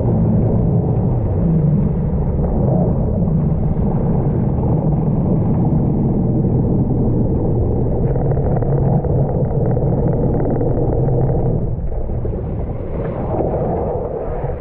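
Yamaha GP1200R jet ski's two-stroke triple running under way, a steady loud engine rumble mixed with water and wind noise. The engine note eases off about twelve seconds in.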